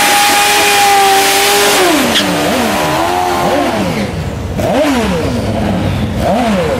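Turbocharged Kawasaki funnybike drag-bike engines held at a steady high rev for about two seconds, then dropping off and blipped up and down four or so times.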